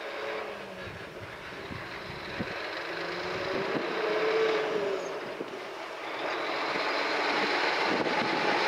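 Electric train approaching along the line, its running noise growing steadily louder, with a faint whine that slides in pitch.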